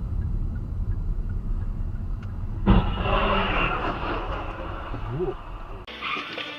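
Car driving with a steady low road rumble, then a sudden loud bang about two and a half seconds in, followed by a second or so of noisy scraping that fades: a vehicle collision.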